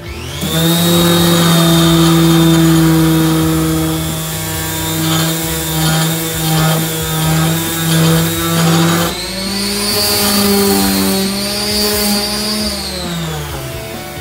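Electric random orbital sander spinning up and sanding the wooden blade of a cricket bat, its motor hum pulsing as it is worked over the wood. Its pitch rises about nine seconds in, then the motor winds down near the end.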